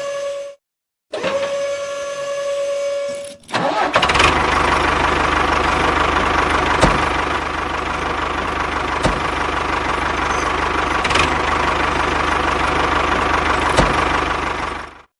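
Small electric motor running with a steady whine that stops and starts abruptly, then about three seconds in a louder, rougher running noise with a sharp tick roughly every two seconds, until it cuts off just before the end.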